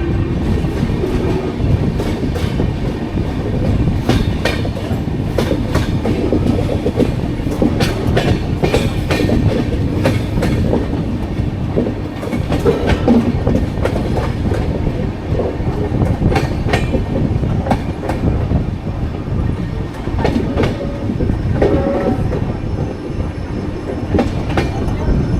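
Indian Railways passenger train running on the rails: a steady low rumble with irregular sharp clacks as the wheels pass over rail joints and points.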